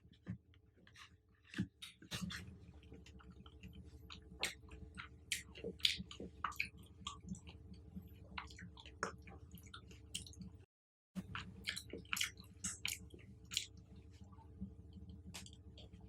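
Close-miked chewing of fruit: irregular wet clicks and mouth smacks over a steady low hum, broken by a moment of dead silence about two-thirds of the way through.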